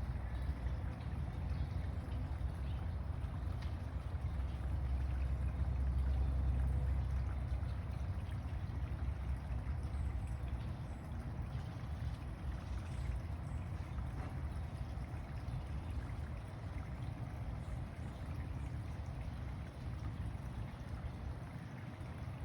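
Steady outdoor background noise: a low rumble that swells about four seconds in and eases off again, under an even hiss.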